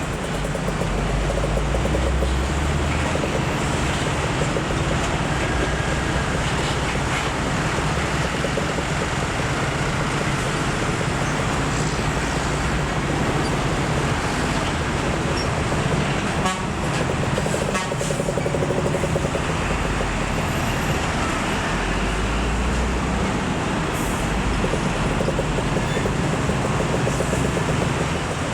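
Road traffic with heavy diesel trucks: a steady low engine drone over road noise.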